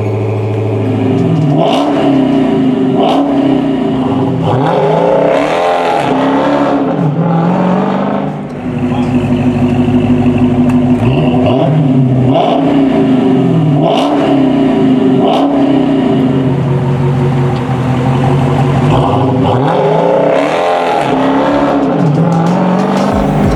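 Supercharged 6.2-litre V8 of a 2023 Dodge Challenger SRT Hellcat Redeye, breathing through Aero Turbine 3.0-inch stainless mufflers and carbon-fibre tips, revved again and again in short blips that rise and fall back, settling to a steady idle between them.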